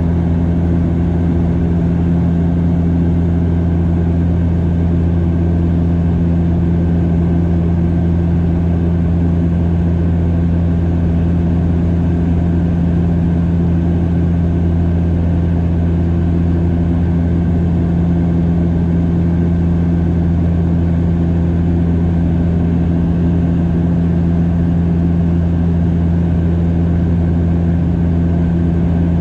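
Cabin drone of a Bombardier DHC8-Q400's turboprop engines and propellers in flight: a loud, steady low hum with strong deep tones, unchanging throughout.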